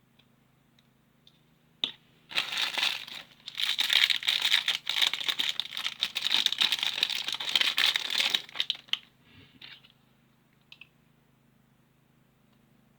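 Plastic packaging crinkling and tearing as toy figure parts are unwrapped, a dense run of crackling that starts about two seconds in and lasts about six seconds, followed by a few light clicks.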